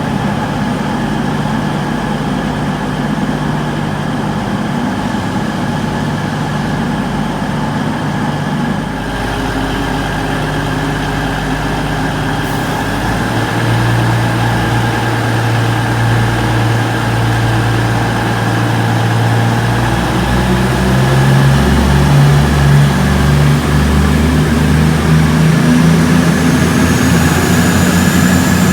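Diesel train engine running at the platform, its low note shifting pitch a few times, growing louder in the last third, with a rising whine near the end as it picks up.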